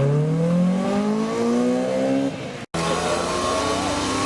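Sports car engine accelerating hard, its pitch climbing steadily for about two seconds. After a sudden cut, another engine runs at high, fairly steady revs.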